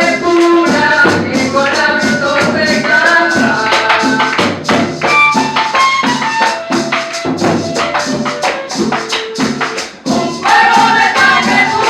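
Live cumbia band playing, with a steady shaken-percussion pulse under melodic lines. About ten seconds in the music drops out for a moment, then the full band comes back in.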